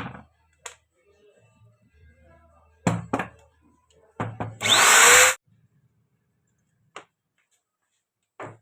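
Angle grinder switched on for under a second, a loud rushing burst with a rising whine that cuts off suddenly, after several knocks and clatters from the tool being handled.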